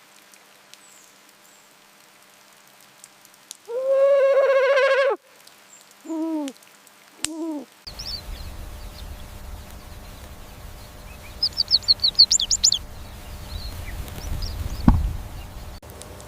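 A drawn-out animal call, then two short hooting calls. After a cut, a quick run of high bird chirps and a single sharp knock.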